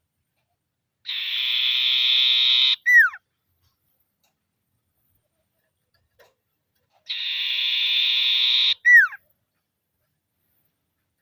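Common iora (sirtu) giving its churring trill call twice, about six seconds apart. Each call is a buzzy rattle of nearly two seconds that ends in a short, sharp whistle falling in pitch.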